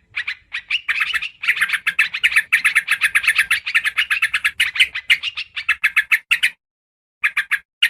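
Yellow-vented bulbul (trucukan) chattering in rapid runs of short, bubbly notes, densest through the middle, then breaking off briefly before one more short run near the end.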